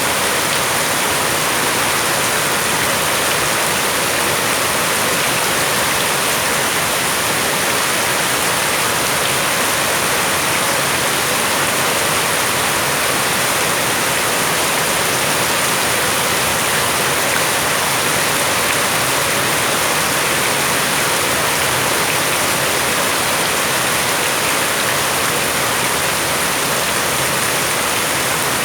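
Rain pouring down steadily, an even hiss that does not change or let up.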